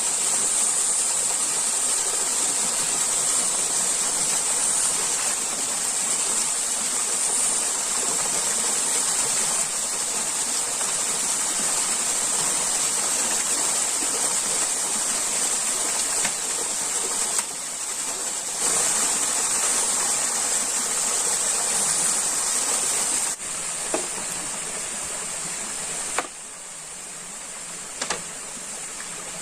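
Steady rushing of flowing stream water under a constant high-pitched hiss. The level drops a little a few times in the second half, and there are a couple of brief clicks near the end.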